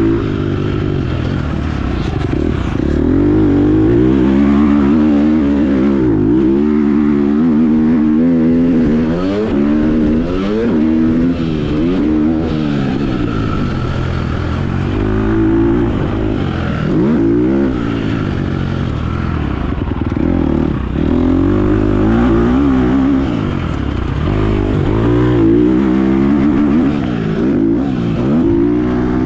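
Motocross dirt bike engine revving hard through a lap, its pitch rising as it accelerates and dropping off over and over as it shifts and rolls off the throttle.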